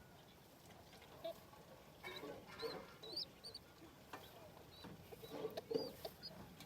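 Young birds peeping: many short, high chirps scattered throughout, with lower calls mixed in from about two seconds in.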